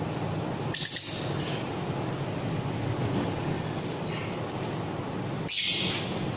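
Pet parrots in an aviary calling. Two short shrill screeches come about a second in and again near the end, with a thin, held high whistle-like note in the middle, over steady background noise.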